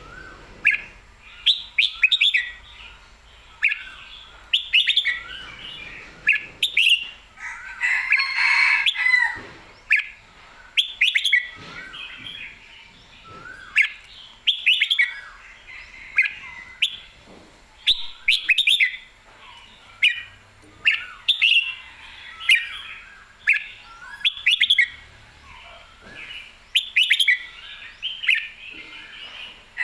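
Red-whiskered bulbul singing: short, bright, warbling phrases repeated every second or two, with a louder, fuller burst about eight seconds in.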